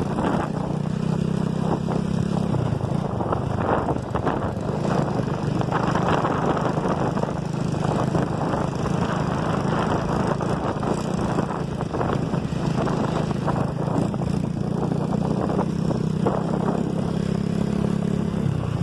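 Small motorcycle engine running steadily while being ridden, a continuous low hum with a rushing noise over it.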